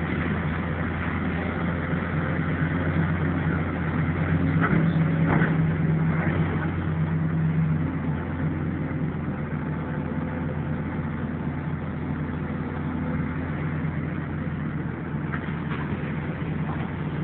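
Diesel engine of demolition machinery running steadily, working a little harder for a few seconds in the middle, with a few short knocks about five seconds in.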